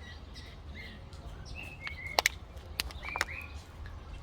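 Birds chirping in short, repeated calls, with a few sharp clicks a little past halfway, the loudest sounds here, over a steady low rumble.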